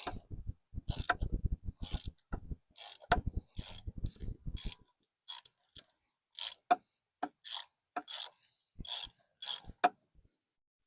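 Ratchet wrench clicking as the oil filter housing cap is unscrewed: fast rattling runs of clicks in the first half, then slower single clicks about every half second that stop near the end.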